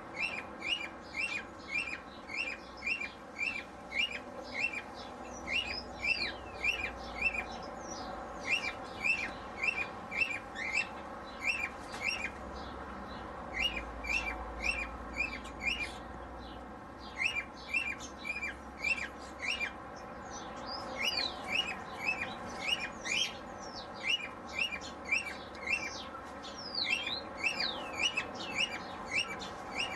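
Aviary birds chirping: a steady string of short, evenly repeated chirps at about two to three a second, with higher, falling whistled notes from other birds over the top and a few brief pauses in the chirping.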